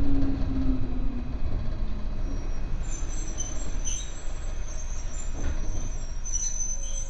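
Electric train braking to a stop, heard from inside the carriage: the motor whine falls in pitch over the first second or so, over a steady rumble of the running gear. From about three seconds in, high brake and wheel squeal comes and goes as the train comes to a halt.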